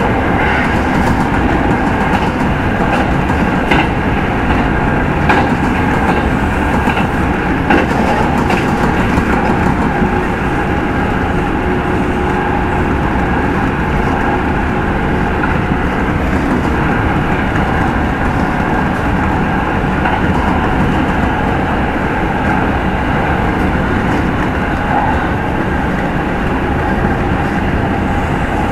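Kintetsu 30000 series limited-express motor car running along the line, heard from inside the car: steady traction-motor and wheel-on-rail noise, with a few faint clicks of wheels over rail joints in the first several seconds.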